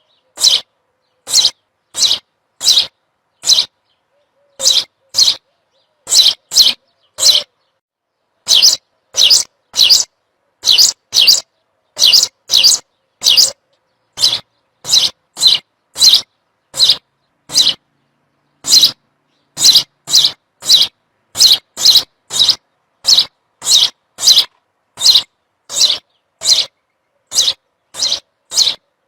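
A bird's single short, high chirp repeated over and over, roughly every half second to a second and sometimes in quick pairs, with complete silence between calls.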